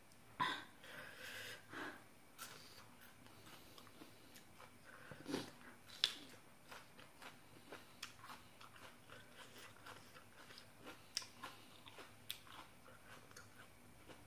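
A person chewing crunchy food, mouthfuls of papaya salad and raw vegetables, close to the microphone: soft, irregular crunches and mouth clicks, with a few louder crunches.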